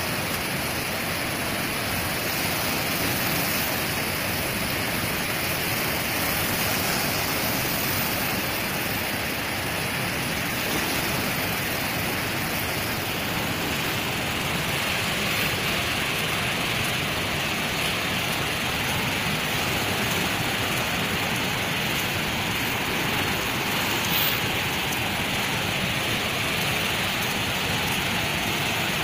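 Steady roar of rushing floodwater.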